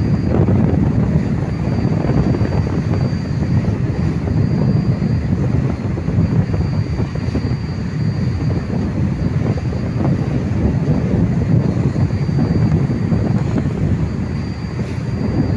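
Tugboat's engine running with a steady low rumble and a faint high whine above it.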